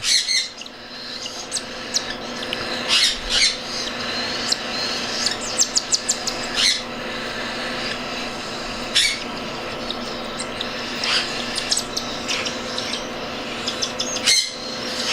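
Baby cockatiel chicks begging for food while being hand-fed: a continuous hoarse, raspy calling with short squawks and quick runs of clicks scattered throughout.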